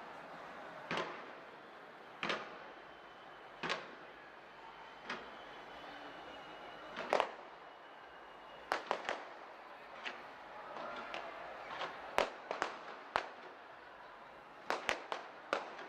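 Fireworks bursting: sharp bangs and pops at irregular intervals, about one every second or so at first, then in quicker clusters in the second half, over a steady hiss.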